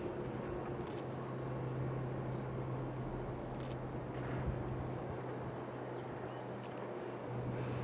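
Low, steady engine hum of a switcher engine slowly pushing a train set, with a couple of faint clicks. A rapid high-pitched insect chirping runs steadily throughout.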